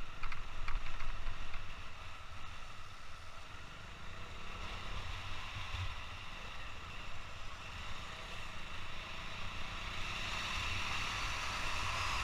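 Motorcycle engine running on the move, heard through a helmet-mounted action camera, with a steady low rumble and wind rushing over the microphone.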